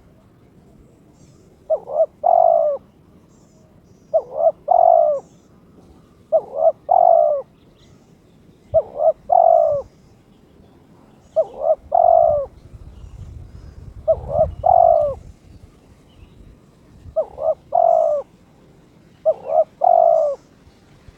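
Spotted dove cooing its call over and over, eight calls spaced about two and a half seconds apart, each a short note followed by a longer rolling coo. It is a male in breeding condition, whose call the owner describes as challenging a rival. Faint chirps of small birds in the background.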